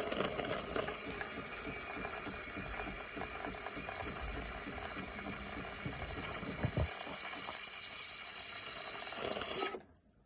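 MaxiBev BTC-10 automatic coffee machine running its milk-system cleaning cycle: a fast, rattling mechanical running noise from its pump and mechanism, with a single knock about two-thirds of the way through, cutting off suddenly near the end.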